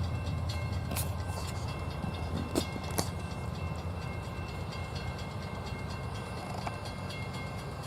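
A train rolling past on the rails: a steady low rumble of the cars, slowly fading, with a few sharp wheel clacks over the track joints.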